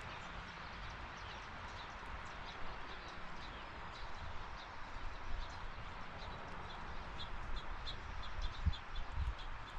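Small birds chirping in short, high, repeated notes, more often in the second half, over a steady background hiss. A couple of low thumps near the end.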